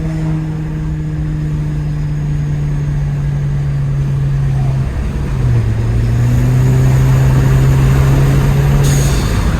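Turbocharged Kia car engine running on the move, heard from the cabin with the window down. Its steady note eases down, drops about five seconds in at a gear change, then climbs and grows louder as the car pulls. A short hiss comes near the end.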